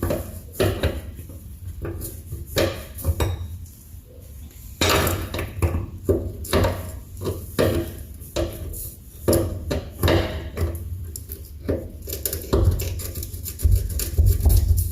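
Metal tools clanking and knocking irregularly, with close, sharp clicks and clunks: a wrench and socket being fitted onto a suspension bolt.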